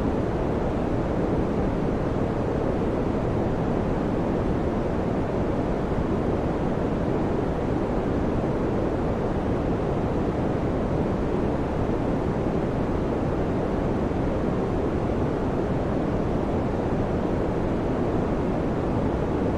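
Electric fan running steadily: an even, low whooshing noise with no changes.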